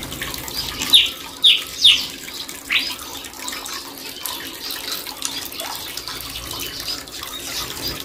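Short, sharp whistled bird calls, each falling in pitch, four of them in the first three seconds, over a steady sound of running water.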